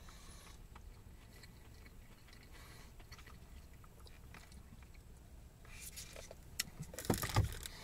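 A person chewing food close to the microphone, quietly, with small wet clicks. A louder, short mouth sound comes near the end.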